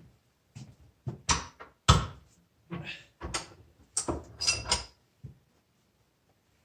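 Tools and small metal parts being handled on a workbench: a quick series of knocks and clicks, a few with a short metallic ring, stopping about five seconds in.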